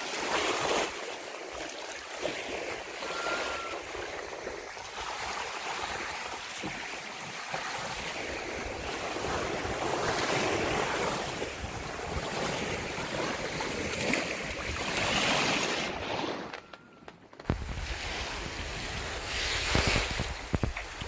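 Sea water washing and splashing in surges, with wind buffeting the microphone. The sound drops away briefly about three-quarters of the way through.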